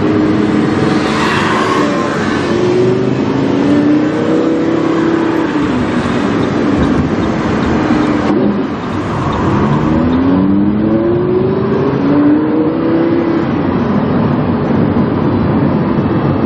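Lamborghini Huracán's V10 engine through a PowerCraft aftermarket exhaust, heard onboard while driving: the engine note rises and falls in pitch as the car accelerates and eases off, with a clear climb just after a brief dip about halfway through.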